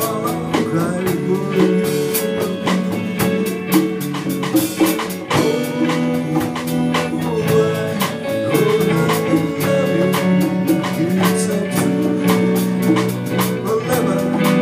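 Band music with guitar over a drum kit keeping a steady beat.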